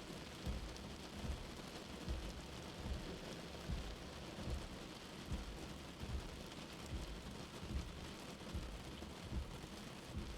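Steady gentle rain falling, with a soft, low heartbeat thump repeating evenly about every 0.8 seconds, roughly 75 beats a minute, under it.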